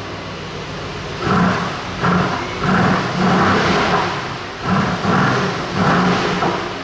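Mercedes-AMG GT R Pro's 4.0-litre twin-turbo V8 revved while stationary in Sport Plus mode: several short blips rising from idle, with one longer rev held for about two seconds in the middle, dropping back to idle between them.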